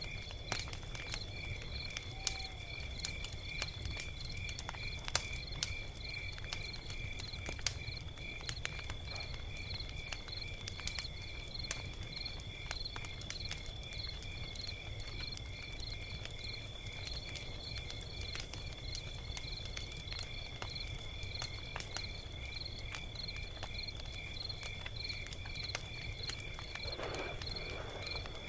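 Log fire crackling with scattered sharp pops over a steady low rumble, under a continuous high chirping that pulses evenly about twice a second.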